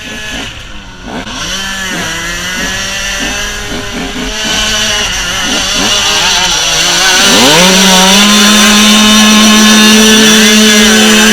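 KTM 125 EXC's 125 cc two-stroke single-cylinder engine revved in quick blips, then about seven seconds in climbing to a high rev held steady and loud, with one short dip near the end.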